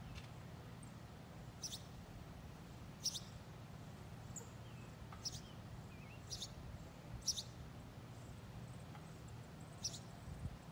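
A small bird chirping: about seven short, high, downward-sweeping chirps at uneven intervals of a second or two, over a faint steady low hum.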